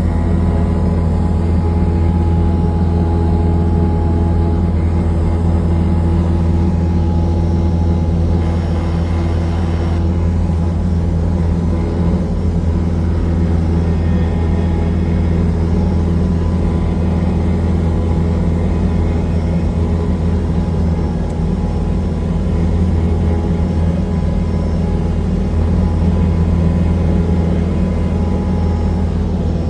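A steady, unchanging low mechanical drone with a constant hum, like an engine running.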